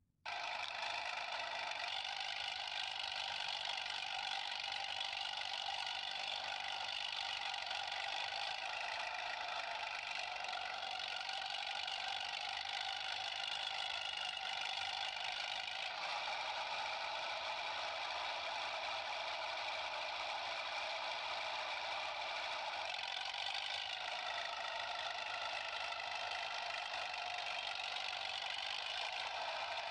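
Steady engine-like motor running, even in level throughout and thin, with no low rumble. It cuts in abruptly after a brief silence.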